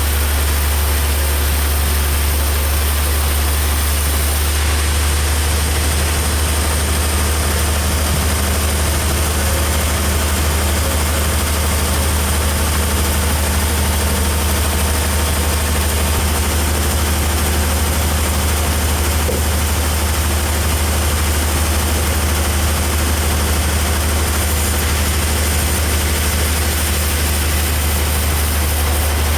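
A heavy engine running steadily at one constant speed: a deep, loud drone with an even hiss above it, with no change in load.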